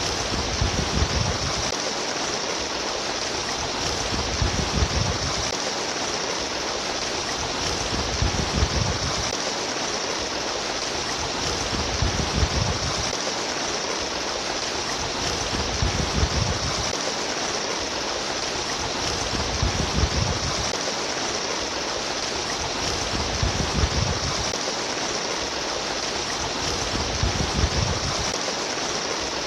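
Trickling, babbling stream water: a steady rushing hiss with a deeper surge about every four seconds.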